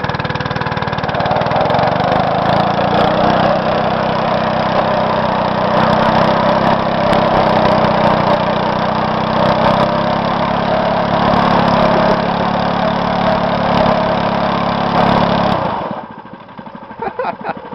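Mini bike's small engine running close by at a steady pitch, which rises a little about a second in; near the end the engine sound drops away abruptly.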